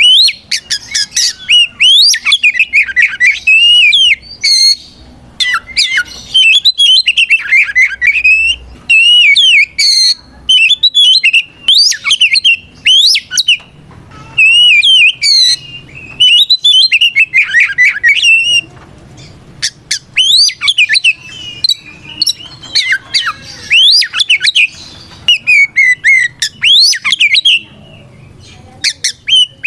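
Oriental magpie-robin singing a loud, full challenge song: quick runs of varied whistled and harsh, scratchy notes in bursts of a second or two, with short breaks between them. It is the call a male gives to a rival.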